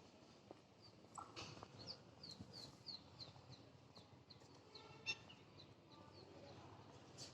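Faint, repeated bird calls: short, high chirps that slide downward, about three a second, with a few soft clicks, the sharpest about five seconds in.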